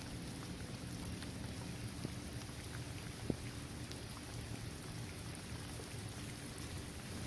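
Steady rain falling on a hard court surface, trees and grass, with individual drops ticking and one sharper drop hit about a third of the way in.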